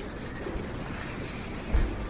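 Gusty wind blowing on the camera's microphone over steady city street noise, with one heavier low buffet near the end.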